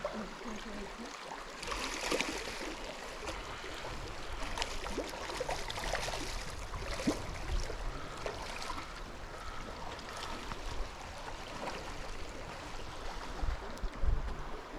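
Stream water flowing steadily, a continuous rush with many small irregular splashes and gurgles.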